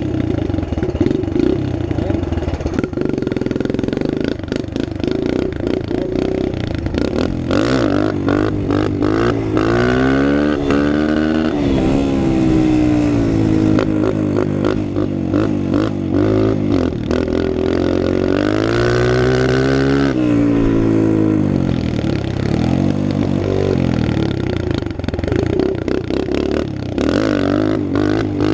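Small dirt bike engine running hard under throttle while being ridden, its pitch climbing twice as it revs, around ten and nineteen seconds in, and falling back each time, with rattling and clatter throughout.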